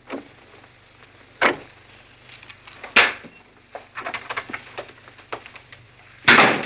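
Door sounds: a few sharp thumps about one and a half, three and six seconds in, with light clicks and knocks between.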